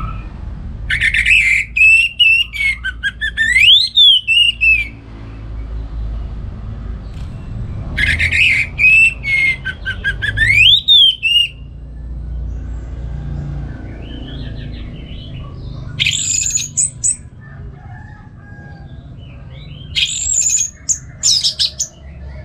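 Orange-headed thrush singing: four loud bouts of rapid, varied whistles and trills with upward-swooping notes, a few seconds apart, over a low steady rumble.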